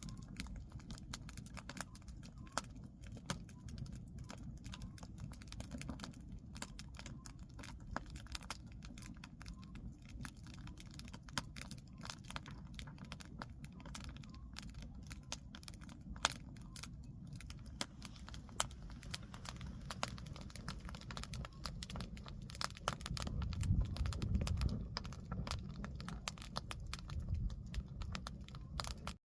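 Firewood burning, crackling with irregular sharp pops over a steady low rumble of the flames; the rumble swells for a couple of seconds near the end.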